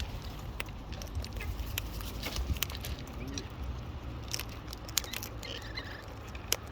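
Cockatoos feeding at close range: irregular sharp clicks and crunches of beaks working on food, with a few faint bird calls.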